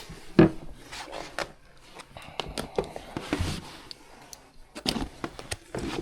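Scattered clicks and knocks of metal furnace parts and hand tools being handled, the loudest about half a second in and a quick run of knocks near the end.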